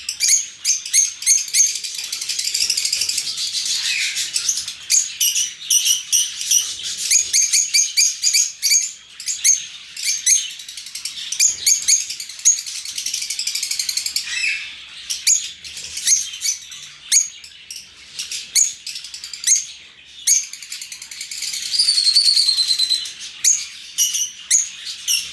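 A flock of lovebirds chirping continuously: many sharp, high-pitched calls overlapping, with bursts of denser chatter.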